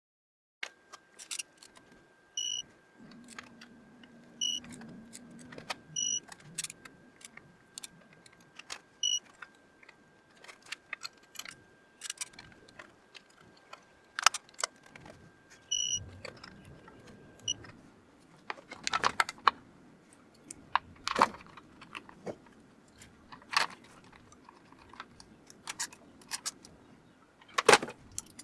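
Metal hand tools and engine parts clinking and clicking as they are handled during engine assembly, in scattered irregular taps with a few louder knocks near the end.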